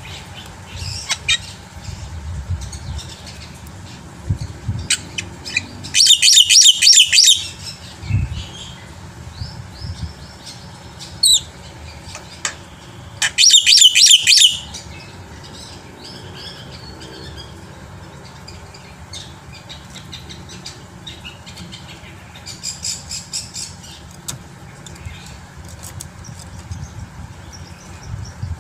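Black-winged myna (jalak putih) singing a varied song of chirps and whistles, broken twice, about 6 and 13 seconds in, by loud, rapid, harsh chattering bursts of a second or so each.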